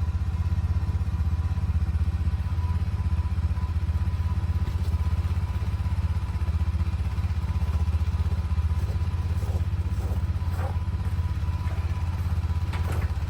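A large engine running steadily at low speed, a deep even rumble. A few faint clanks come near the end.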